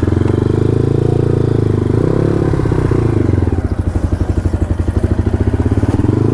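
Dirt bike engine running at low revs with a steady, fast pulsing, the pitch shifting briefly about two seconds in as the bike is eased along.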